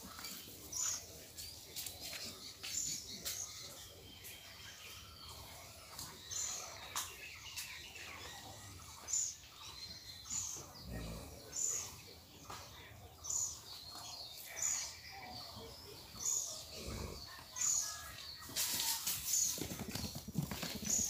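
A bird repeats a short, high call about once a second. Near the end there is a burst of rustling and scuffing.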